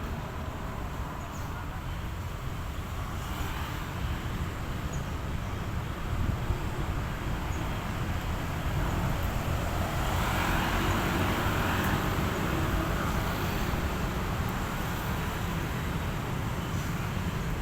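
Steady outdoor background rumble and hiss, swelling louder from about ten seconds in.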